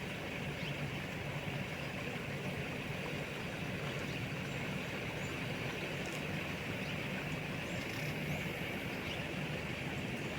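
A steady low engine hum with a continuous high hiss over it.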